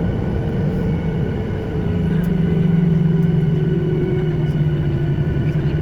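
Jet airliner cabin noise while taxiing after landing: a steady low rumble from the engines running at low power, with a steady hum that dips briefly about a second in and then returns.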